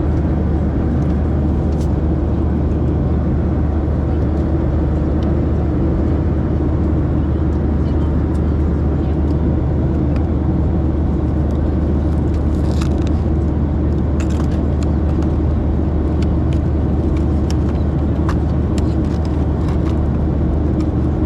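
Steady cabin noise of a Boeing 737-700 in flight: a constant low drone of engines and airflow heard inside the cabin, with a few faint clicks.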